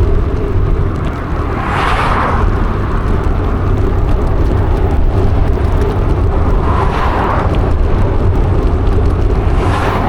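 Steady low rumble of wind and riding noise on a bicycle-mounted microphone, with vehicles passing close by: their tyre noise swells and fades about two seconds in, again around seven seconds, and near the end.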